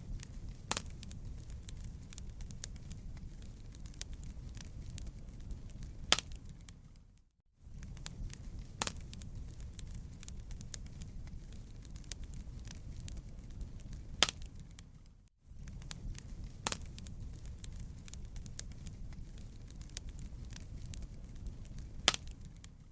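Fireplace fire crackling: a steady low rumble with scattered sharp pops. It fades out briefly about every eight seconds, as a looped recording does.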